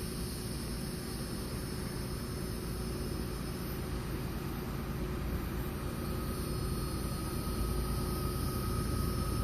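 Train rumbling past, a steady low rumble that grows slowly louder, with a thin high whine joining about six seconds in.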